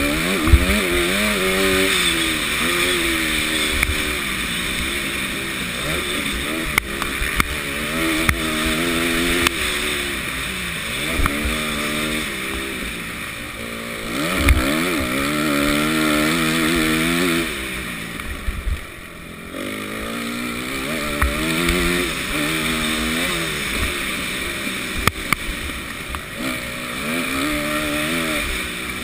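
Motocross bike engine revving hard through the gears, its pitch climbing in run after run and dropping back at each shift or easing off, with a steady rush of wind on the helmet camera's microphone and occasional knocks from the rough track.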